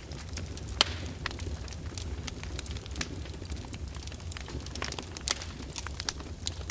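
Fire burning in a fireplace, crackling with irregular sharp pops, the loudest about a second in and again near the end, over a steady low rumble of the flames.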